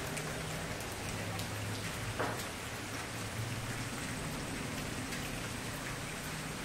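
Wood fire burning with a steady hiss and scattered small crackles, and a louder pop about two seconds in.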